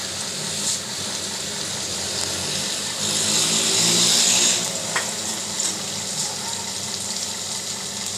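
Flour-coated chicken wings frying in hot oil: a steady sizzle that swells louder for about a second and a half, starting three seconds in. A light click about five seconds in.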